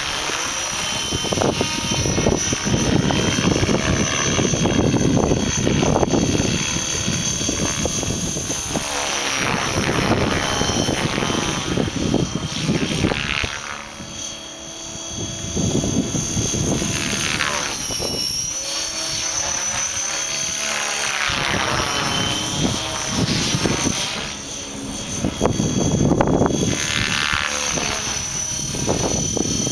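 Align T-REX 600 radio-controlled helicopter with a flybarless (SK-360) head in flight: a steady high-pitched whine over rotor noise that swells and fades as it manoeuvres, dipping briefly twice. Strong gusty wind buffets the microphone.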